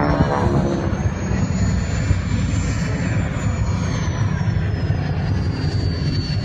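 Airplane engine noise as an aircraft flies by, steady and loud, with a faint high whine that rises and then falls.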